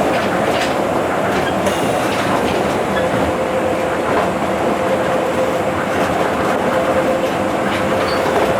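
Tokyo Monorail train running at speed, heard from inside the car: a steady rumble of rubber tyres on the guideway beam, a steady whine held near one pitch, and a few light knocks.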